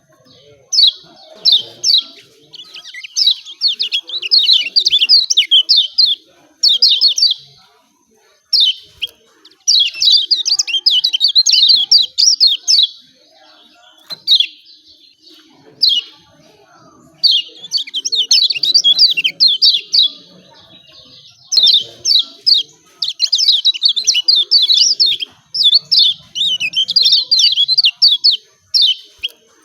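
Lemon-bellied white-eye (kecial kuning) giving its competition-style 'ciak ciak' call: rapid, high chirping notes in quick runs of one to two seconds, separated by short pauses.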